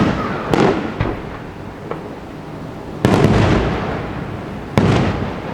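Fireworks exploding: three loud bangs, about half a second, three seconds and nearly five seconds in, each trailing off in a long rolling echo, with a smaller crack between them.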